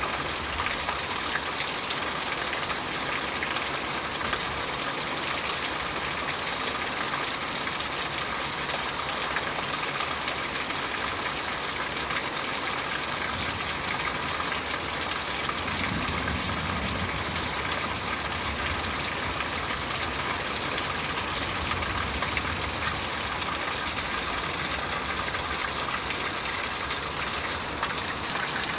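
Heavy rain pouring down steadily onto grass and pavement, a dense, even hiss of falling water. A brief low rumble swells in and fades about halfway through.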